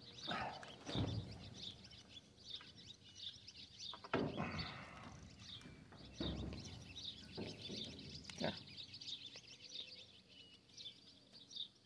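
Small birds chirping repeatedly in the background, with a few brief rustling or handling noises, about four, six and eight and a half seconds in.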